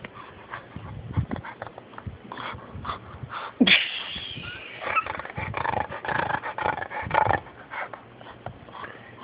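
A dog snorting in irregular short bursts. A sudden loud snort comes about three and a half seconds in, followed by a busier run of noises for a couple of seconds.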